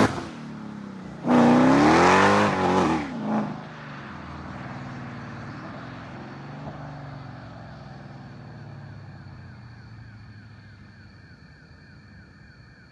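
Supercharged 6.2-litre Hemi V8 of a 2016 Dodge Charger Hellcat on an American Racing exhaust: a hard rev about a second in, its pitch rising then falling, a short blip after it, then a lower engine sound that slowly fades away.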